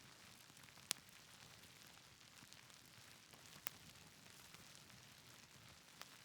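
Faint wood fire crackling over a soft, steady hiss of rain, with three sharp pops, the loudest about a second in.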